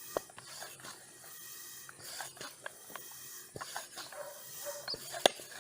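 Hand air pump with an inflation needle pumping up a ball: soft puffs of air with scattered small clicks, and one sharper click near the end.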